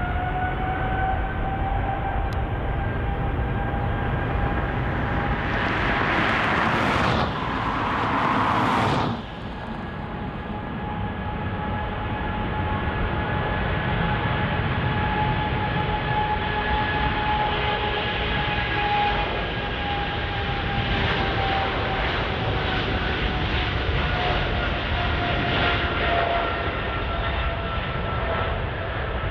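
Jet airliner engines running at high power: a steady roar with a whining fan tone that rises over the first second, then holds. Two brief loud rushes of noise come about six and eight seconds in.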